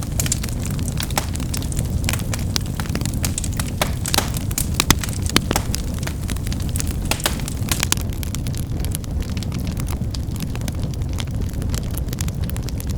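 Fire crackling: sharp, irregular pops and snaps over a steady low rumble of burning.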